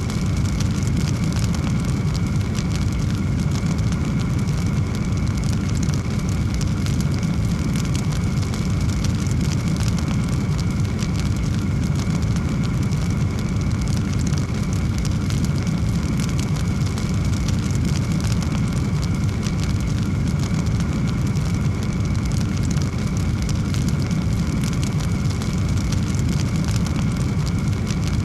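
Large wood fire burning with a steady low roar and constant fine crackling, with a faint steady whistle from sizzling wood.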